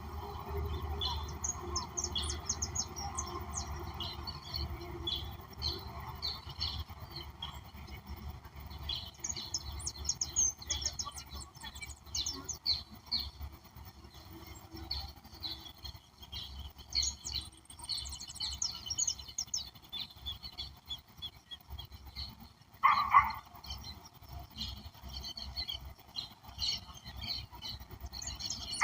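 Many songbirds chirping and trilling at once in a dense, overlapping chorus of short high notes. About two-thirds of the way through, one louder, lower call stands out briefly.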